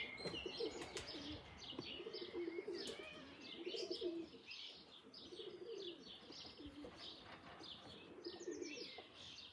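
Pigeons cooing in repeated low phrases, roughly once a second, over the quick high chirping and twittering of small songbirds.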